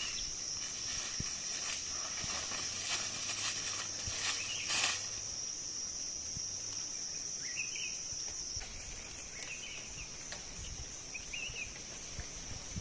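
Steady high-pitched drone of forest insects. A short rustle or snap comes about five seconds in, and a few brief high chirps follow in the second half.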